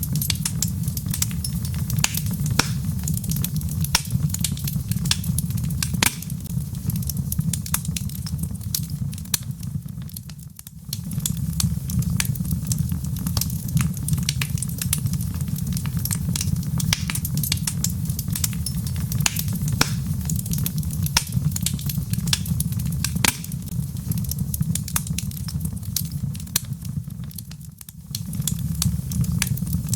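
Log fire crackling, with many sharp pops and snaps over a steady low rumble of the flames. The sound dips briefly twice, about a third of the way in and near the end.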